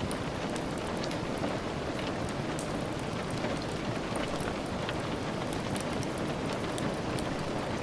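Steady rain falling as an even hiss, with a constant scatter of small sharp ticks from individual drops.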